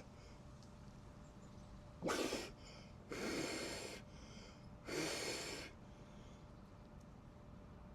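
A person breathing hard: three forceful, breathy breaths, the middle one about a second long, the sharp breathing of someone in ice-cold water.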